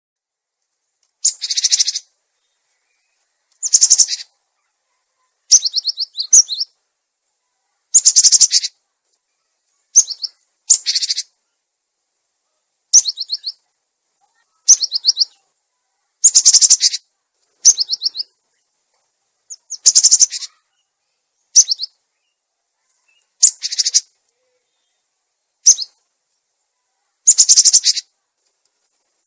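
Cinereous tit (gelatik batu) calling in short bursts of rapid, high, clear chirping notes. About fifteen bursts come roughly every one to two seconds, with dead silence between them, as in an edited lure-call recording.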